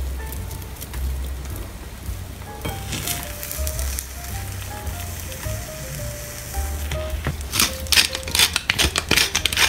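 Beaten eggs and cheese sizzling in a frying pan under background music with a steady bass beat. Near the end comes a run of rapid gritty clicks as black pepper is ground over the top.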